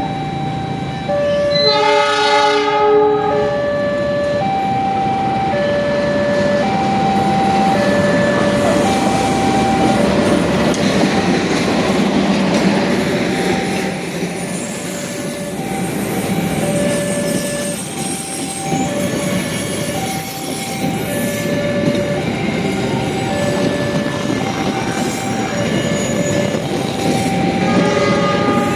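Diesel locomotive horn of the Argo Cheribon express sounding once for about two seconds, a second and a half in. Then comes a steady noise of the train's carriages rolling past on the rails. Throughout, a level-crossing warning alarm repeats two alternating tones about once a second.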